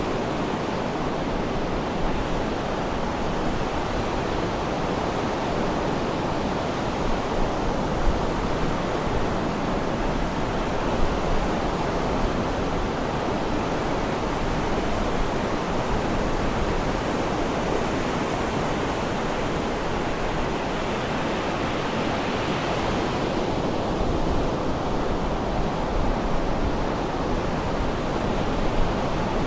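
Sea surf washing steadily onto the shore, a continuous rushing with a few slightly louder swells.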